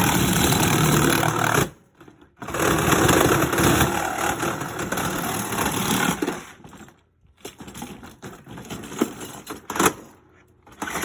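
Power saw with a wood blade cutting through a dishwasher's metal and plastic in stop-start bursts: a cut of about two seconds, a brief stop, a longer cut of about four seconds, then shorter broken bursts with pauses near the end. The wood blade struggles in the metal.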